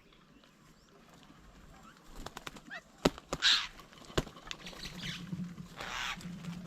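Small birds at a feeding table: a couple of quick rushes of wingbeats, two sharp taps and a few faint short chirps.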